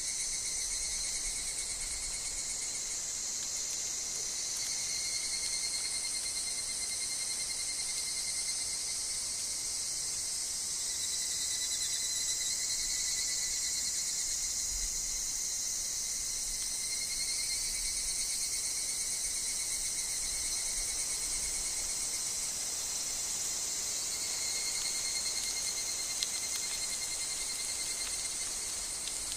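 Chorus of higurashi evening cicadas and other insects: a dense, continuous high-pitched shrilling that swells and fades over several seconds, with thinner steady insect tones beneath it.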